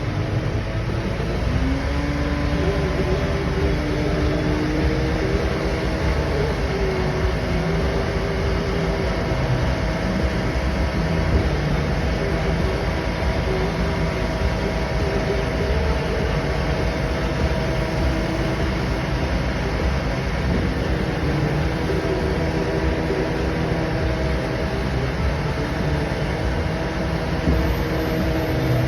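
Scania R650 truck's V8 diesel running steadily, a continuous low rumble with a steady whine, its pitch stepping up slightly in the first couple of seconds and then holding.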